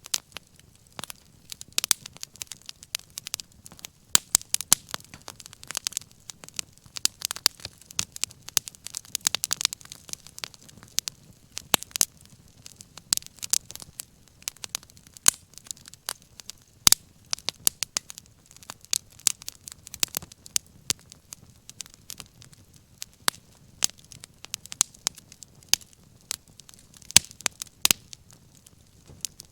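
Wood fire crackling: irregular sharp pops and snaps, a few louder than the rest, over a faint low steady rush.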